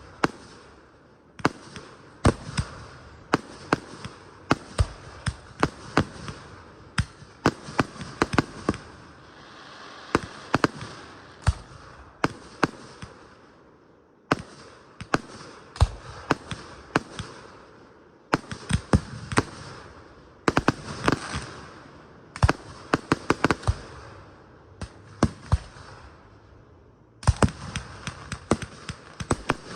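Aerial fireworks display: volleys of sharp bangs in quick succession with crackling between them. Short lulls come about halfway through and again just before the end, then a fresh volley of bangs.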